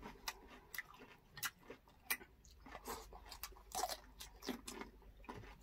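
Close-up eating sounds: crunchy bites into raw cucumber and chewing, heard as faint, irregular short crunches and clicks.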